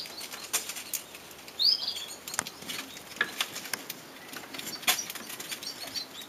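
Aviary budgies and canaries: a short chirp about two seconds in, among many scattered light ticks and taps from the birds pecking at the sand floor and moving about.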